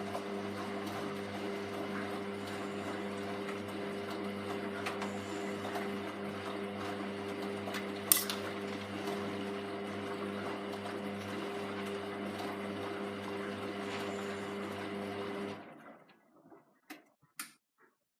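Hoover Vision Tech VT 914 D22X washing machine tumbling its drum during a 40°C mixed wash: the motor runs with a steady hum and whine over the sound of the turning load, with one sharp knock about eight seconds in. The motor stops abruptly near the end, as the drum pauses between turns, and a few faint clicks follow.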